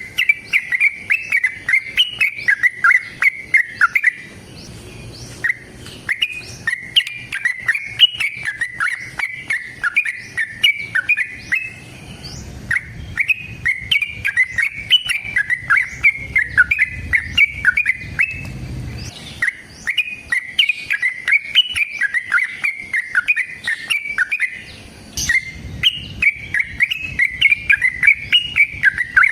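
Yellow-vented bulbul (trucukan) singing long, rapid runs of chattering notes in the 'ropel panjang' style, in several extended phrases with brief pauses between them.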